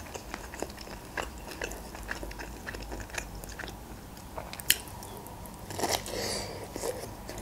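Close-miked eating sounds: soft chewing with small wet mouth clicks, then a louder bite into a broccoli floret about six seconds in.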